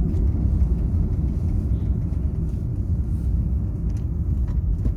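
Steady low rumble of an aeroplane cabin, the engine and air noise holding level without change.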